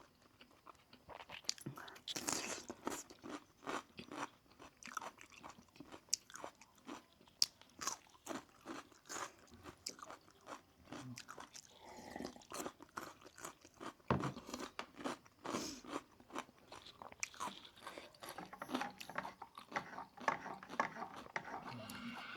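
Close-up eating sounds of roast chicken: irregular crunching, biting and wet chewing, with sharp crackles of crisp skin being bitten.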